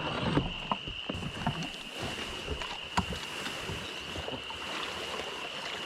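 Kayak being paddled in to the bank: water splashing and irregular knocks of the paddle and gear against the hull. A steady high-pitched drone runs behind it.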